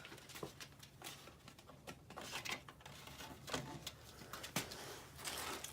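Quiet room with a few faint scattered clicks and light handling noises over a low steady hum.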